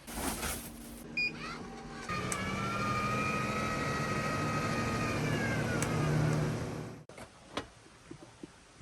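Small electric motor of an RV roof vent fan whining steadily for about five seconds, dipping slightly in pitch and then cutting off abruptly, with a few clicks before it starts.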